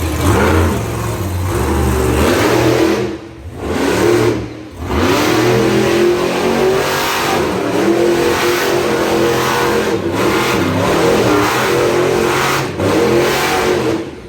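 Monster truck engine revving hard through a freestyle run, its pitch repeatedly rising and falling. The sound drops away briefly twice, about three and four and a half seconds in.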